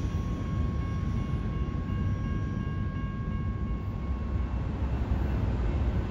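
Double-stack intermodal freight train rolling by: a steady low rumble of wheels on rail, with a faint high ringing over it that stops about four seconds in. After that another approaching freight train's rumble carries on.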